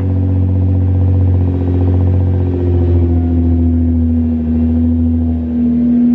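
Nissan GT-R R35's twin-turbo V6 with a custom titanium cat-back exhaust running steadily, a loud low drone echoing in an enclosed car park. A higher tone in it eases down slightly about three seconds in.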